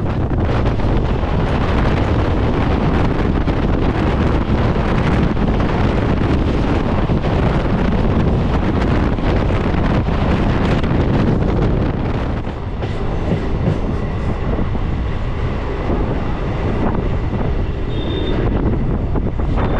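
Suburban local train running at speed, heard from on board: a steady, loud rumble and rattle of wheels on the rails, easing slightly about two-thirds of the way through.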